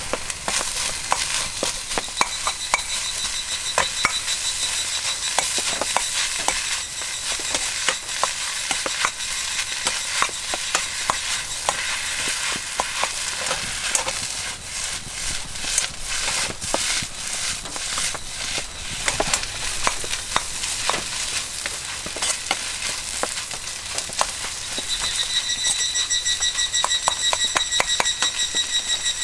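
Fried rice sizzling in a wok over a campfire, with a spatula clacking and scraping against the wok many times as it is stir-fried. Near the end a high, rapidly pulsing tone starts and keeps going.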